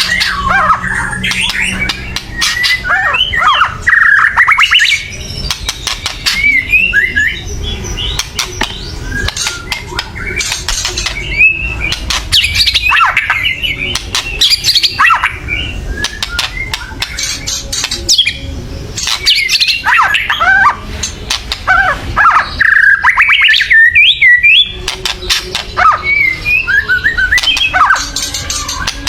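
White-rumped shama (murai batu) song: loud, harsh, rattling 'kretekan' calls mixed with quick chirps and whistled notes, in phrases broken by short pauses. It is the excited, aggressive singing of a shama.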